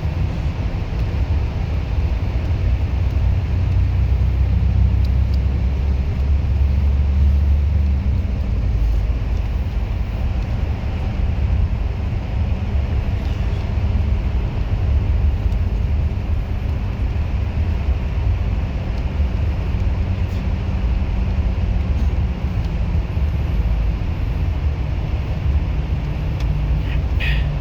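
A moving bus's engine and road noise: a steady low rumble that eases slightly about eight seconds in, with a brief high-pitched sound near the end.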